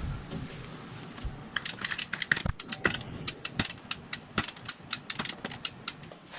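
Ratchet clicking: a quick, uneven run of sharp metallic clicks, a few per second, starting about a second and a half in.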